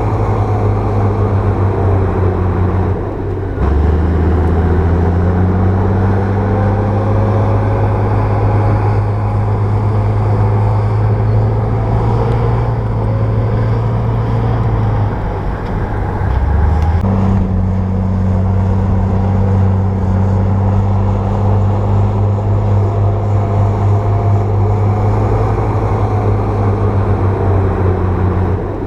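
Bulldozer diesel engine running steadily under load with a deep, even hum. Its note dips briefly and shifts pitch about three seconds in and again around sixteen seconds in.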